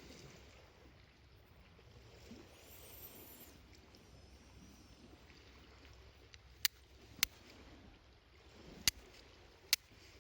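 Four sharp clicks at uneven intervals in the second half, over a low steady rumble of sea and wind.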